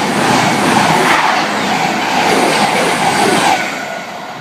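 A CrossCountry passenger train passing at speed close by: a loud, even rush of wheels and air that fades away over the last second or so.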